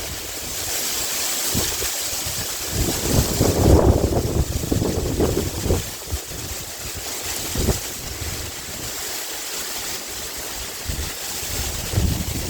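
Sea wind blowing through a bamboo grove, the leaves rustling in a steady hiss, with gusts buffeting the microphone in irregular low rumbles; the strongest gust comes a few seconds in.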